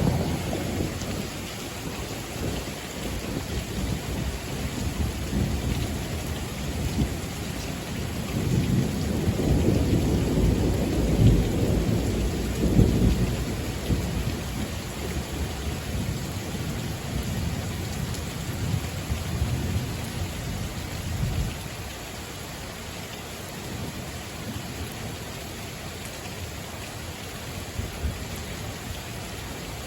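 Heavy thunderstorm: steady rain hissing, with a long rolling rumble of thunder that swells from about eight seconds in, peaks a few seconds later and dies away about two-thirds of the way through.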